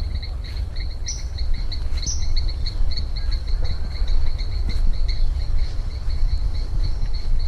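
Insects chirping in a fast, even pulse of about five chirps a second, over a steady low rumble on the microphone. Two short, higher chirps stand out about one and two seconds in.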